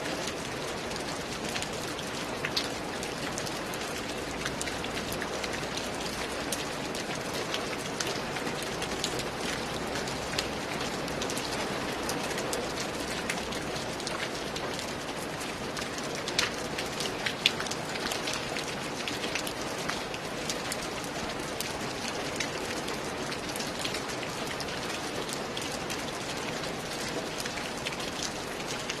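Steady rain falling: a constant hiss with single drops ticking through it, and a few louder drops about sixteen and seventeen seconds in.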